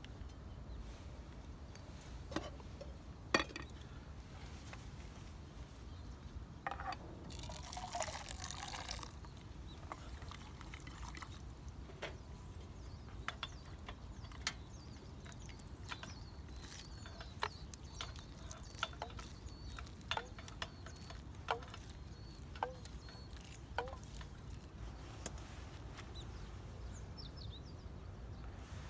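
Ramen cooking in a pot, with faint liquid bubbling and dripping and scattered light clicks. A brief noisier, splash-like stretch comes about seven to nine seconds in.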